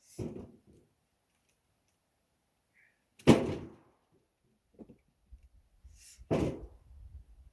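Three heavy thunks about three seconds apart, the middle one the loudest.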